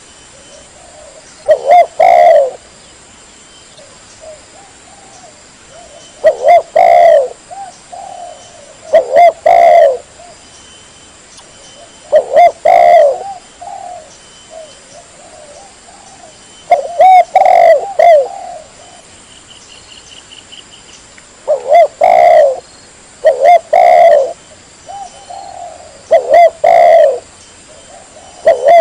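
Spotted dove cooing loudly in repeated phrases of a few coos, about every three to five seconds, with softer coos between them. It is a recorded call used to lure wild spotted doves.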